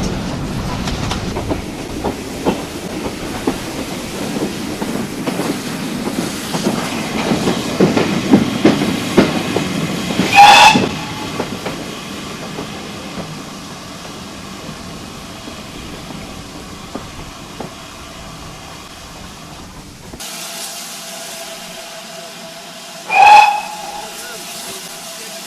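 Train running with the rumble and clicks of wheels on rail joints, and a short locomotive whistle blast about ten seconds in. The sound then turns to a quieter steady hiss, with a second short single-note whistle blast near the end.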